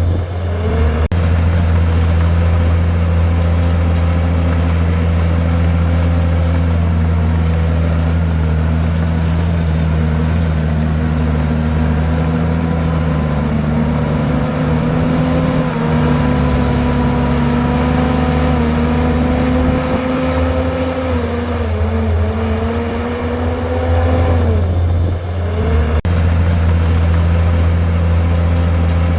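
Komatsu bulldozer's diesel engine running steadily under load, its pitch sagging briefly near the start and twice more towards the end before picking back up.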